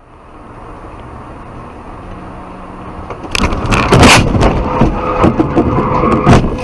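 Vehicle and road noise building, then from about three seconds in a car collision: a run of loud crashing impacts and crunching metal.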